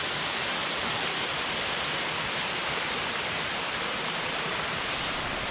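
Waterfall pouring steadily: a constant, even rush of falling water with no breaks, the fall carrying a lot of water.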